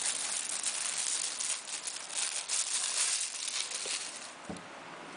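Plastic packaging crinkling and rustling as a tablet is unwrapped, dying away after about four seconds, with a soft knock just after.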